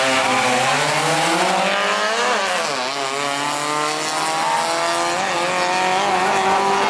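Race car engine revving hard, its pitch rising and falling, with a quick drop and climb in pitch about two to three seconds in.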